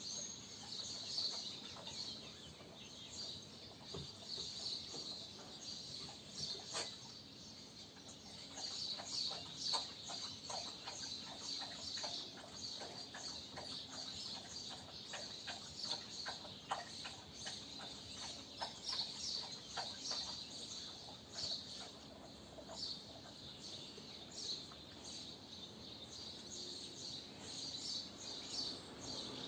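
Swallows twittering: a dense, continuous stream of short, high chirps, fairly faint.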